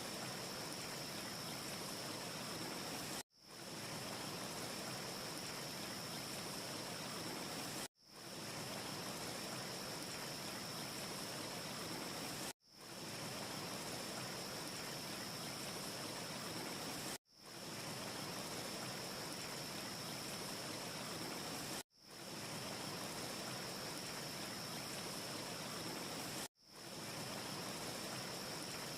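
Steady rushing hiss of a wind ambience with a faint, steady high whistle over it. It cuts out abruptly and fades back in about every four and a half seconds, six times over, as a short loop repeats; no fire crackle stands out.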